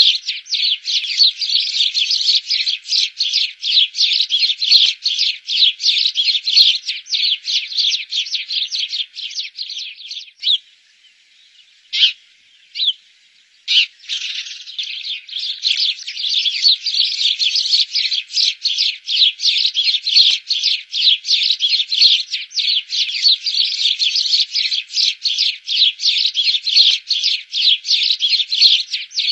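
A group of house sparrows chirping, many rapid short chirps overlapping. They fall almost silent for a few seconds near the middle, with a couple of lone chirps, then start up again just as busily.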